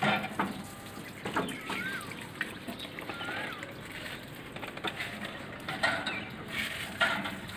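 Birds calling: a few short whistled notes that rise and then fall, with several sharp knocks in between.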